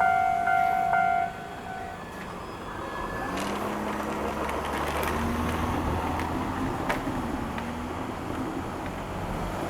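An electronic bell rings in quick, even pulses and stops about a second in. A Shizuoka Railway 1000 series electric train then moves off, its motor hum rising slowly in pitch over a low rolling rumble, with a sharp click about seven seconds in.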